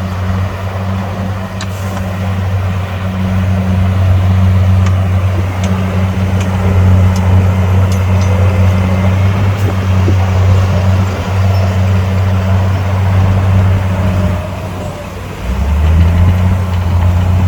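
Heavy diesel engine running hard with a steady low drone, easing off briefly about fifteen seconds in and then picking up again.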